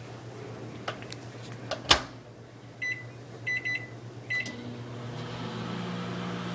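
Microwave oven door shut with a sharp click, then keypad beeps (one, a quick run of three, then one more) as the cooking time is set. About five seconds in the oven starts running with a steady hum.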